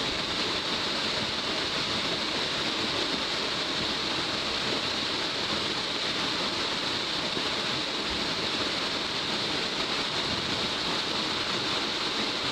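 Waterfall, the upper tier of Saruo Falls, a 39 m drop splitting into many strands over angular rock, making a steady, even rush of falling water.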